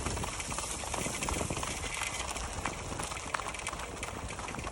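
Border collie's dog boots clip-clopping on salted pavement as she runs, a quick, steady patter of footfalls that sounds like a horse galloping.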